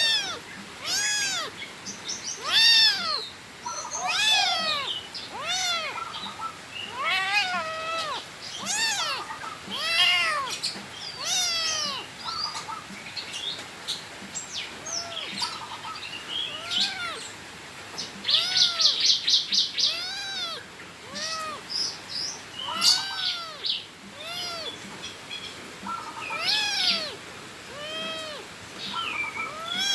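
A cat meowing over and over, about one call a second, each call rising and falling in pitch. About two-thirds of the way through comes a short, rapid high trill.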